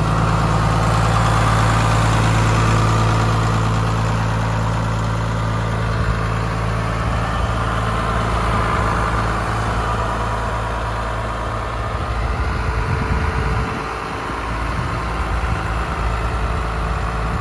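New Holland TM140 tractor's diesel engine running at a steady idle; after about six seconds its low note turns rougher and less even.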